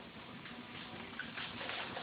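Food frying in a hot pan, a steady crackling sizzle.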